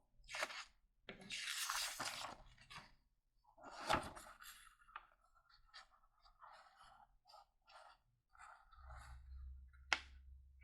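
A sheet of paper rustling and crinkling in bursts as it is handled and folded, with sharp taps about four seconds in and near the end.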